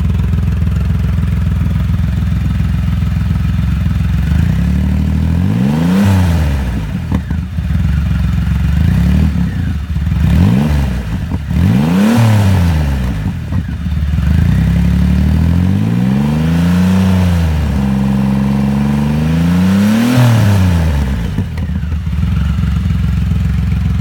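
Triumph Rocket 3 Roadster's 2.3-litre inline-triple idling through an aftermarket exhaust and revved about five times, each rev rising and falling back to idle. The last rev is around twenty seconds in. The exhaust note is deep and throaty.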